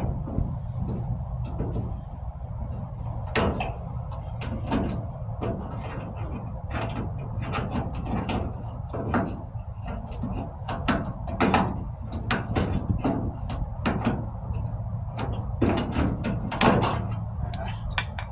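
Hand work on the rusted sheet metal of a pickup's wheel arch: irregular sharp metallic clicks and knocks, one or two a second, with a few louder strikes, over a steady low hum.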